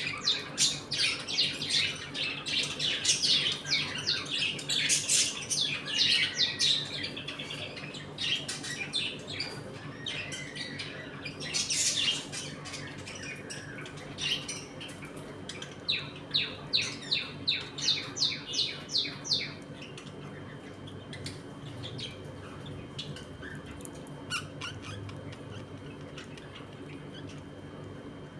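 A colony of pet budgerigars chirping and chattering in fast runs of short high calls, busiest through the first several seconds and again just past the middle, thinning out toward the end. A steady low hum runs underneath.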